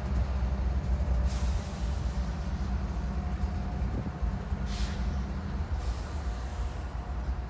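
Low, steady rumble of a diesel train, with two brief hisses, one about a second in and one near five seconds, and a faint steady tone above.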